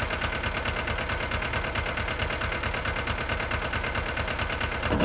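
Small Yanmar tractor engine idling steadily, with an even, fast beat.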